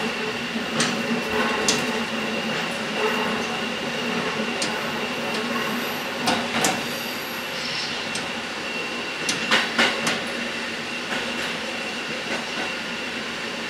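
KiHa 11 diesel railcar running along the line, heard from inside the cab: a steady running noise broken by irregular sharp clacks of the wheels over the rail joints, three of them in quick succession about ten seconds in.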